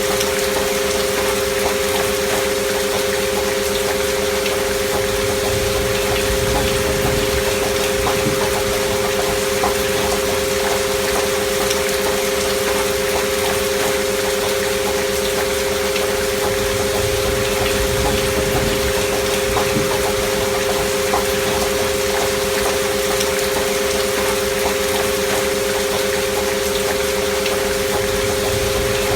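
Steady rain hiss with two pure sine tones held unchanging over it, a binaural 'healing frequency' track.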